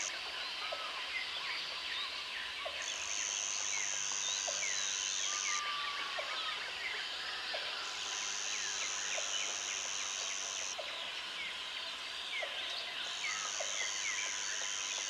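Jungle ambience: an insect's high, steady buzz comes in bouts of about three seconds, returning roughly every five seconds. Under it runs a dense chorus of chirping and whistling birds, with a soft tick about once a second.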